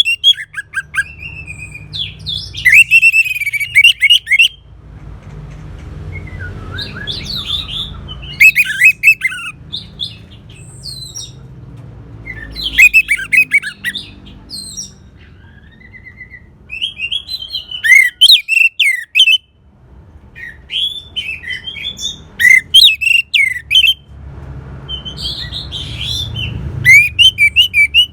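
Orange-headed thrush singing: loud phrases of rapid, varied whistles and chattering trills, each a second or two long, repeated every few seconds with short gaps between them. A low hum runs underneath.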